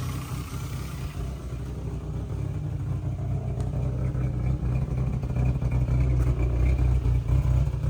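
1998 Geo Tracker's 1.6-litre four-cylinder engine running rough at a fast idle as it settles down toward a normal idle.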